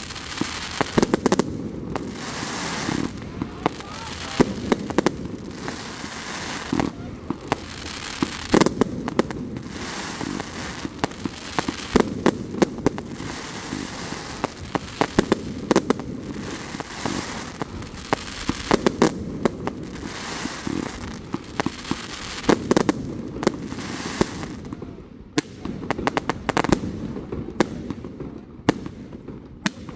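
Fireworks display going off in quick succession: a steady run of sharp bangs, often several close together, over a continuous noisy bed between them.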